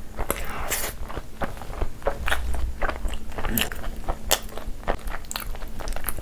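Close-miked chewing of a mouthful of chicken shawarma wrap, with many short, irregular wet smacks and clicks of the mouth.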